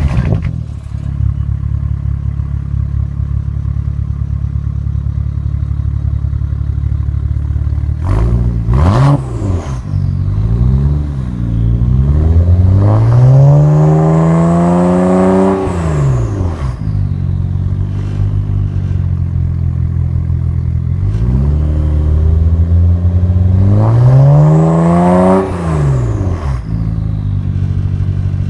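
BMW 335i's turbocharged straight-six with aftermarket downpipes and an Active Autowerke exhaust, idling steadily and then revved. About eight seconds in come two short throttle blips, then a longer rev that climbs for about three seconds and drops back to idle. Near the end come another short blip and a second long rev.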